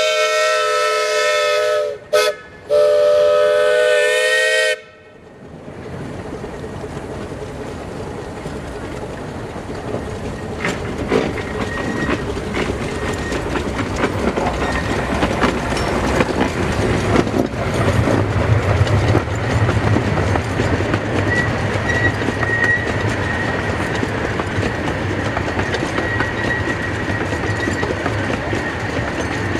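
A live steam locomotive's chord whistle blows two blasts with a brief break between them. Then the small-gauge steam train runs by: wheels rumbling on the rails with scattered clicks, growing louder.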